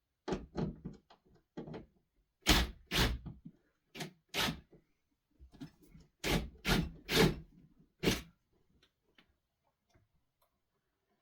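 A string of about a dozen irregular knocks and thuds in a small room, wood being handled and knocked together, the loudest coming in clusters with short quiet gaps between.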